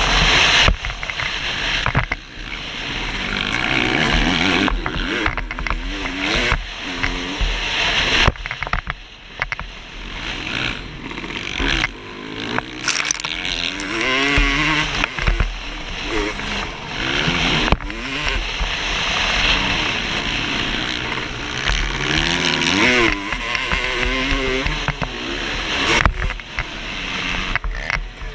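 2008 Suzuki RM250 two-stroke single-cylinder motocross engine revving up and falling off again and again as the bike is ridden around a dirt track, over a steady rush of noise.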